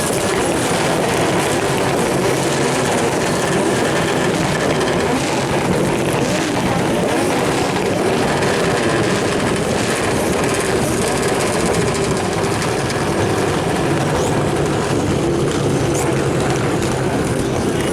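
Turbocharged drift car engine running loudly and steadily, with no distinct bangs standing out.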